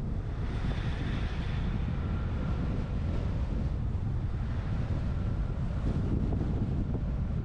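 Wind buffeting the microphone of a GoPro on the roof of a moving truck, with a steady low rumble from the drive.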